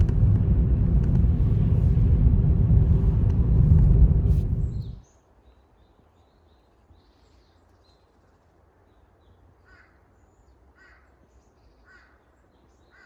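A loud low rumbling noise that cuts off suddenly about five seconds in. Then, faintly, crows cawing four times, about a second apart, near the end.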